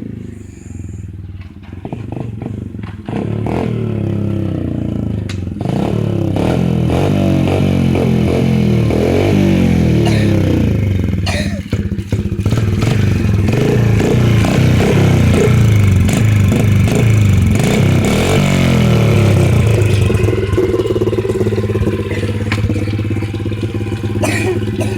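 Dirt bike engine running under throttle, its pitch repeatedly rising and falling as it revs and shifts. It gets louder a few seconds in, with a brief drop in the middle as the throttle comes off.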